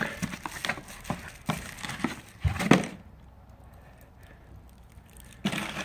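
Ozark Trail camp cook set being handled: scattered light clinks and knocks of the pieces, a sharper knock about two and a half seconds in, and a brief rustle near the end.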